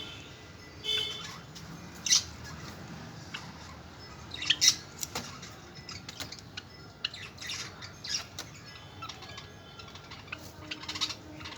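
White Java sparrows giving short, sharp chirps and calls at irregular intervals, with the loudest cluster just under halfway through.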